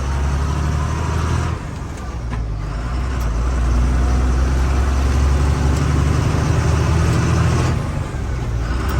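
Truck engine running steadily under way, with its note dropping briefly about two seconds in and again near the end.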